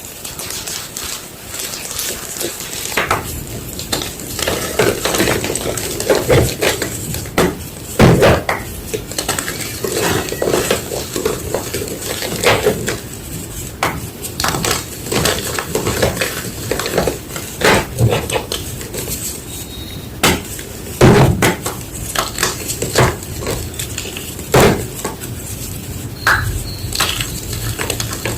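Blocks of white gym chalk being crunched and crumbled, an irregular run of crisp crackles with sharper snaps here and there.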